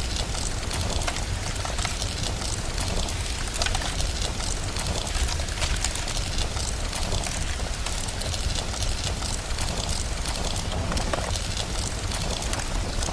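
Steady rain together with a crackling fire: a dense, even hiss dotted with many small pops and crackles.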